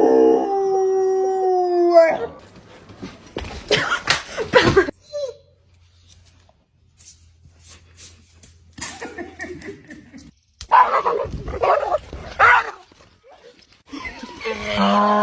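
A long, held animal call that drops in pitch and breaks off about two seconds in, followed by scattered short noisy sounds and further brief calls.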